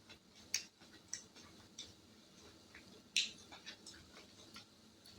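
Faint chewing of sugar-coated dried cranberry candies: scattered small crunches and mouth clicks, one louder about three seconds in.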